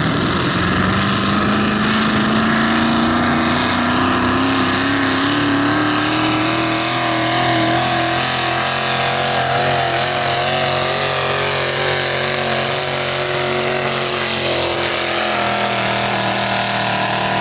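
Pulling truck's engine at full throttle, its pitch climbing steadily for the first half as it drags the sled down the track, then holding at high revs.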